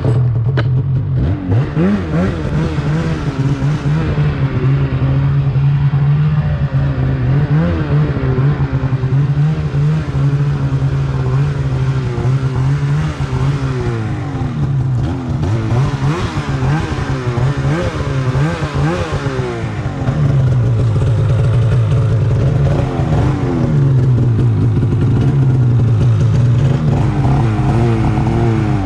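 Snowmobile engine running under way, loud, its pitch rising and falling again and again as the throttle is opened and eased. It comes in suddenly at the start and gets a little louder about two-thirds of the way through.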